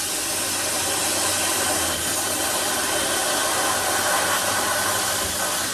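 Cutting torch hissing steadily as it cuts through the truck bed's sheet metal, then dropping off sharply at the end.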